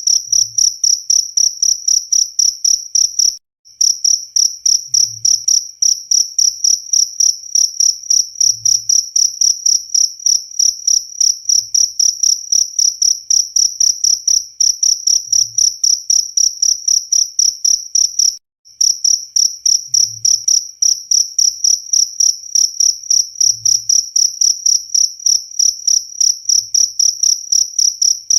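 Cricket chirping: a steady, high-pitched trill in rapid even pulses, about four a second, that breaks off for a moment twice.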